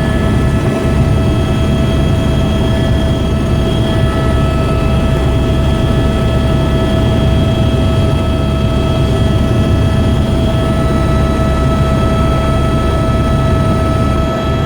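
Helicopter in flight: an even, loud rumble from the engine and rotor with a steady high whine over it, unchanging throughout.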